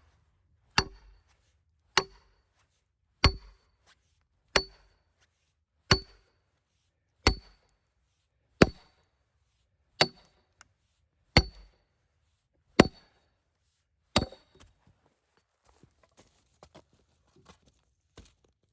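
A hammer driving a steel wedge into a cedar log to split off a rail: eleven steady, evenly spaced blows about one every second and a half, each a sharp metallic clink with a short ring. The blows stop a little past two-thirds of the way through, leaving only a few faint ticks.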